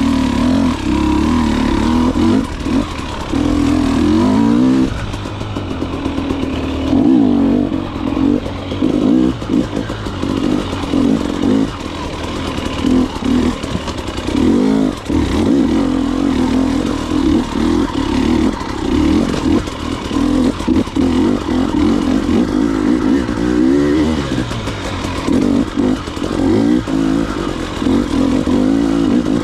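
Dirt bike engine running and revving up and down repeatedly as the throttle is opened and closed.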